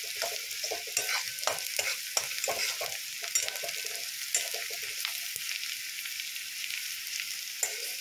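Chopped onion with crushed garlic and ginger sizzling in hot oil in a steel kadai, scraped and stirred with a metal spatula. The scraping strokes stop about five seconds in while the sizzle goes on.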